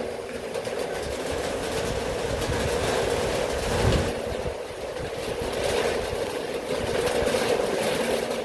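Strong wind and rain, a steady rushing noise with gusts rumbling on the microphone.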